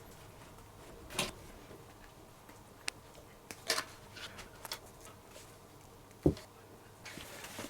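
Scattered light clicks and taps of hands and tools working on a leather baseball glove, with one dull low thump about six seconds in.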